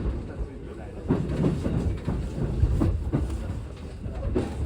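Train running, heard from inside a passenger car: a steady low rumble with occasional short clicks from the wheels.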